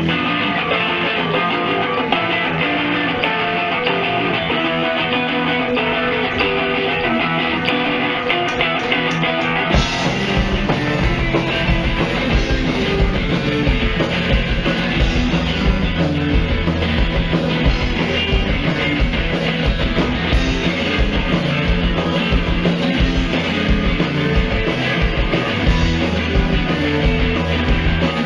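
Rock band playing live, an instrumental intro led by guitar; about ten seconds in the full band comes in with a driving low-end beat and the music gets louder.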